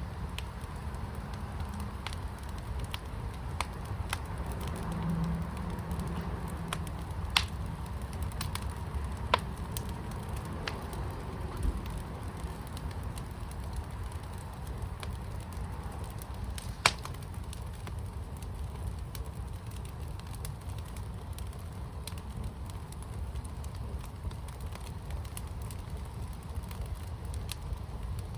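Fire pit burning with a steady low rumble and a few scattered sharp pops, two of them louder than the rest, about a quarter of the way in and just past halfway.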